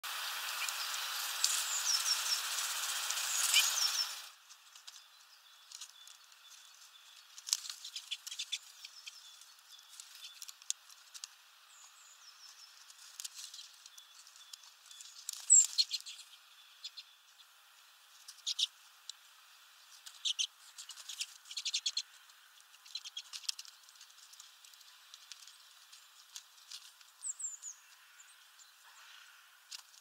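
Small birds at a feeder giving short, high chirps now and then, with scattered light ticks and taps. The first four seconds hold a louder rushing hiss with chirps over it.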